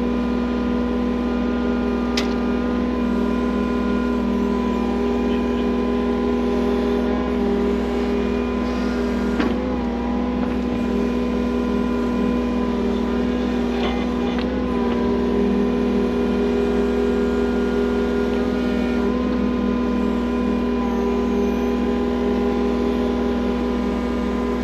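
Engine of heavy digging equipment running steadily at constant high throttle while the trench is being dug, its pitch holding unchanged throughout. A few faint clicks and knocks stand out about 2, 9 and 14 seconds in.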